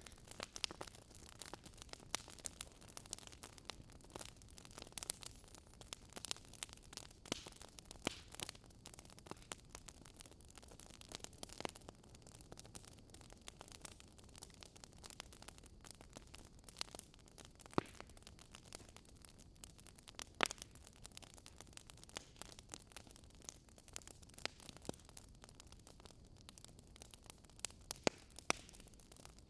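Wood fire burning in a fireplace, crackling with irregular pops and snaps over a soft steady hiss.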